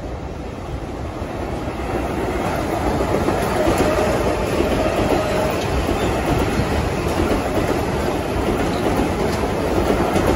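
Metro-North M8 electric multiple unit passing close by, getting louder over the first two seconds and then running steadily as its cars go past, with a faint brief whine about four seconds in.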